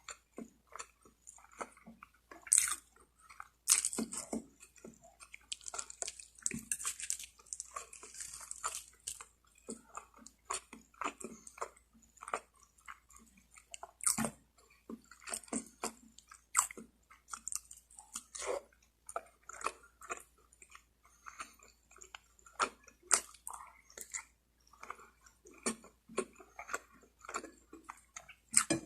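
Close-miked chewing and biting of roast chicken: irregular wet smacks and small crunches, with a longer hiss of mouth noise about six seconds in.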